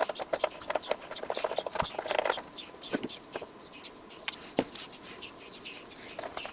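Irregular clicks and light taps of parts being handled and moved during cleaning of an amplifier's metal chassis, with the sharpest knocks about three and four and a half seconds in. Faint short high chirps run underneath.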